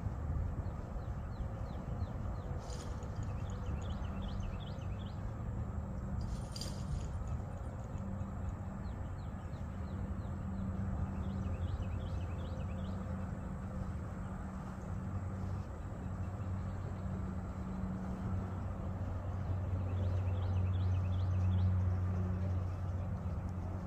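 Ework electric lawn mower running with a steady low hum, swelling louder about nineteen seconds in. Birds chirp in short bursts over it, with a couple of brief clicks.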